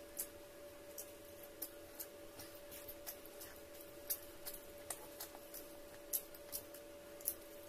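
Close-miked eating: a person chewing with the mouth closed, making short, sharp wet mouth clicks and smacks at an irregular pace of about one or two a second. A steady faint hum lies under it.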